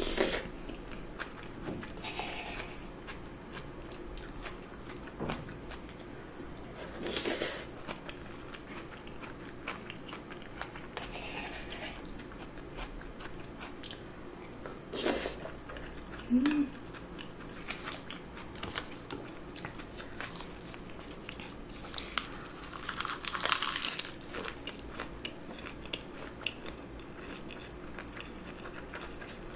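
Close-miked chewing and mouth sounds of a person eating spoonfuls of rice with fried egg, with a few louder bites scattered through.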